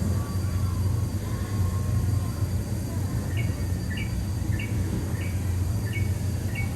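Steady low rumble of the Liberty Belle, a steam-powered paddlewheel riverboat, under way. From about three seconds in, a bird repeats a short falling chirp a little more than once a second.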